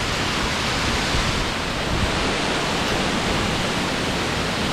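Waterfall crashing into its plunge pool close by: a steady, loud rush of falling water.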